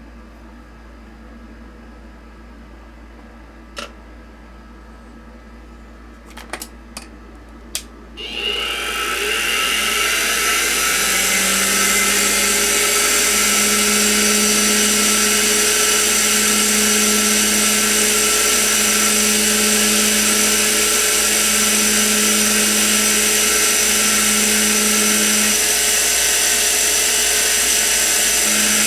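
Sieg X2 mini-mill starting up after a few sharp clicks: about eight seconds in its spindle motor spins up with a rising whine and then runs steadily, with a low hum that comes and goes in pulses of about two seconds.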